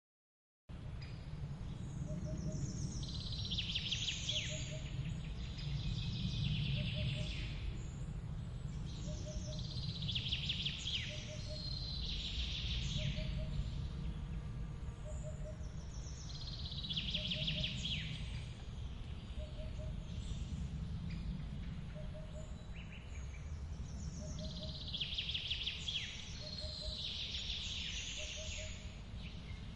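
Forest waterfall's steady low rush of falling water, with songbirds repeatedly singing short descending phrases over it in bouts every few seconds. A faint short double chirp repeats about every second and a half underneath. The sound starts suddenly from silence less than a second in.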